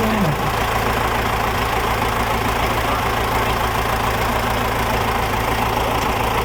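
An engine idling steadily, an even low rumble that neither rises nor falls.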